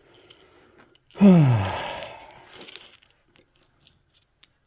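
A man's loud, breathy sigh or groan, falling in pitch, about a second in, followed by a few faint small clicks.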